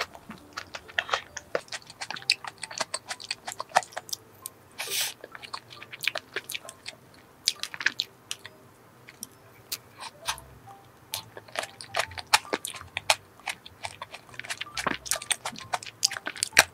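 Close-miked chewing of chocolate cream cake with chocolate shavings: a steady string of short wet mouth clicks and soft crunches, with one louder burst about five seconds in.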